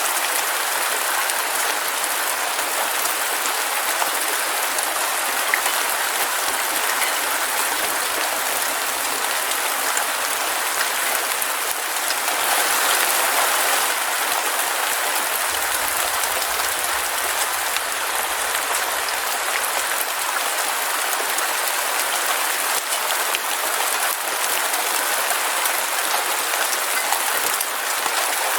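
Heavy rain falling steadily, a dense even patter with no let-up, swelling slightly midway.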